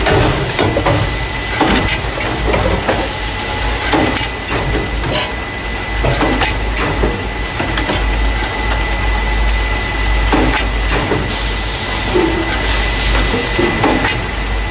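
Carton caser running: the machine that moves paper cartons of juice or milk into plastic crates. It gives a steady mechanical hum with a constant high tone, broken by irregular clacks and knocks of moving parts and cartons.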